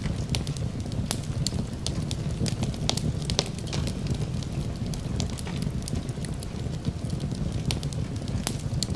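Wood fire crackling in a fireplace, with frequent, irregular sharp pops and snaps over a steady low rumble. A soft, even hiss of rain runs underneath.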